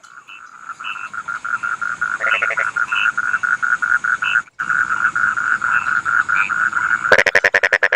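Rice-field frogs calling in chorus: a steady train of rapid croaks, with a louder, harsher run of croaking from a nearer frog near the end. The sound cuts out for an instant about midway.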